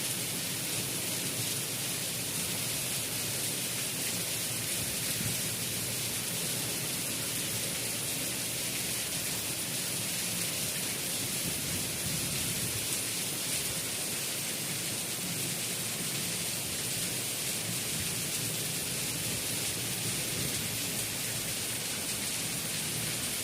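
Steady, heavy rainfall, an even hiss of rain falling without letup.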